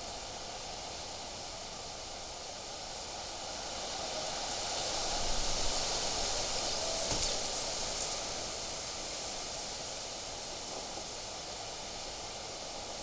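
Wind gusting: a steady rushing hiss that swells a few seconds in, peaks and dies back down to a lower steady rush.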